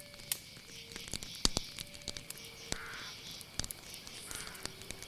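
Night nature ambience: frequent irregular sharp crackles and clicks over a faint steady high-pitched tone and a few short, low held notes that change pitch.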